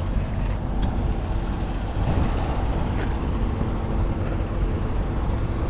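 Steady vehicle rumble with a low hum, and a few faint ticks.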